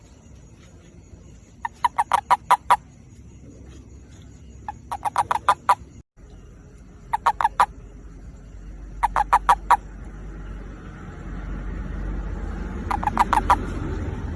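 Toad's mating call: five short bouts of rapid pulsed croaks, each lasting under a second, spaced a few seconds apart. A low rumble grows beneath them in the second half.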